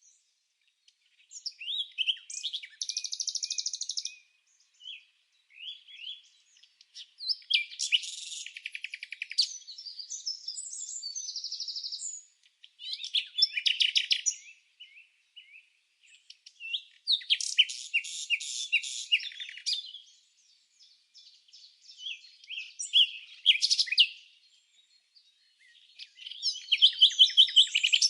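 A songbird singing a series of separate phrases of quick chirps and trills, with short pauses between them.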